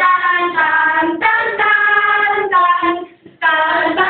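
A high-pitched voice singing drawn-out notes, with a short break about three seconds in.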